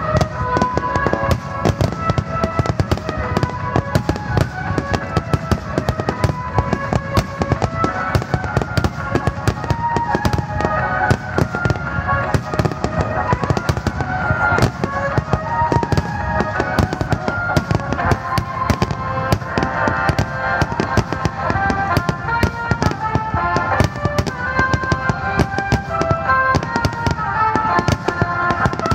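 Aerial fireworks display: a dense, continuous barrage of shell bursts and crackling, many reports a second. Music with a melody plays throughout.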